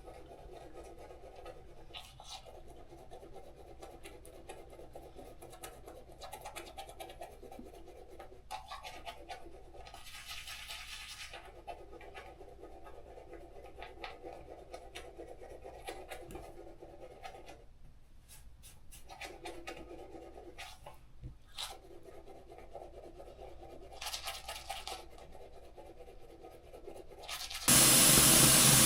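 Scratching and rubbing noises over a muffled sound that comes and goes, then a loud steady rushing hiss starts suddenly near the end.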